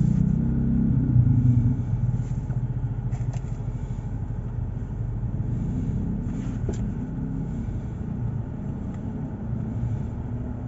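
A car being driven through city streets: steady low engine and road rumble, a little louder in the first couple of seconds, then easing.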